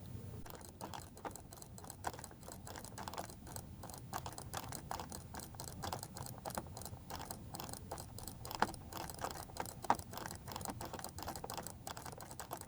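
Faint, irregular clicking and tapping of computer input devices at a desk, several light clicks a second, with two sharper clicks about two-thirds of the way through.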